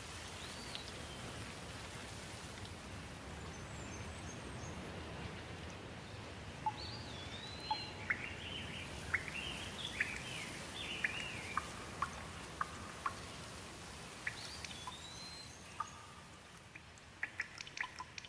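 Steady rain falling, with a bird calling over it in short whistled chirps and swooping notes. Near the end the rain thins and scattered drips tick.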